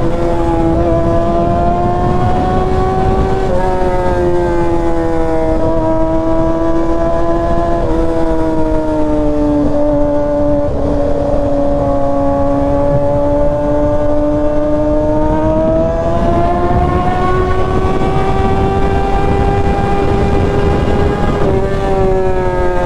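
Kawasaki ZX-6R inline-four running at high revs through a Graves header and M4 aftermarket muffler while riding. The pitch holds steady with a few small steps, sags gently for several seconds past the middle, then climbs again.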